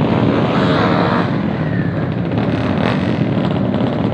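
Motorcycle engines running loudly, with a rising rev in the first second or so.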